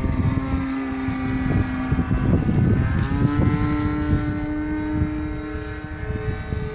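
Engine of a Hangar 9 Piper Pawnee 40 RC model airplane running in flight, a steady buzzing note that rises in pitch about three seconds in, over a low rumble of wind on the microphone.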